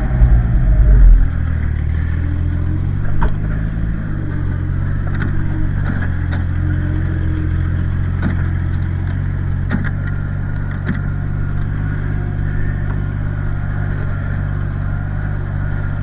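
Propane-fuelled engine of a 1968 Minneapolis-Moline G900 LP tractor running steadily, heavier and louder for about the first second, with a few light clicks and rattles.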